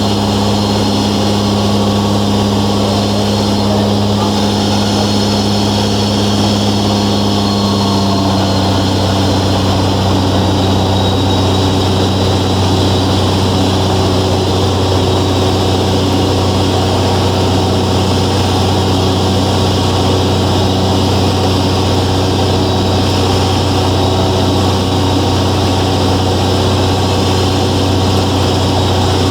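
Velocity S-FG's 180 hp engine and pusher propeller running steadily, heard inside the cabin as a loud, even drone. The engine note drops slightly about eight seconds in.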